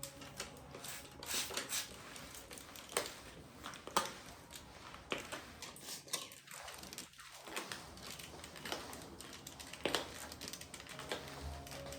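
Irregular rustling and crinkling with scattered sharp clicks and light knocks: household objects being handled in a small room.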